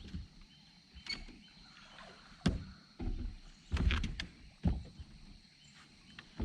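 Irregular knocks and bumps, about five in a few seconds, of gear and movement in a small fishing boat, over a quiet background of water and air.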